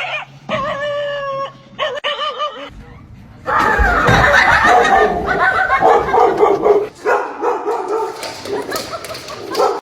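A dog vocalising: two short, wavering howl-like calls, then about a second later a longer stretch of loud barking mixed with people's voices.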